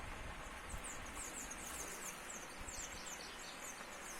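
Runs of short, high, quickly falling chirps, several a second, over a steady hiss of outdoor noise.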